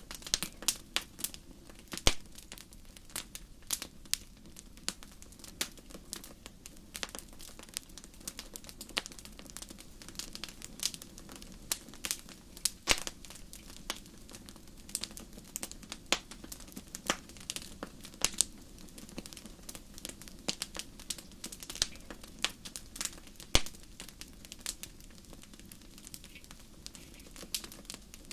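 Wood fire crackling in a fireplace: a steady low hiss with frequent irregular pops and snaps, a few louder than the rest.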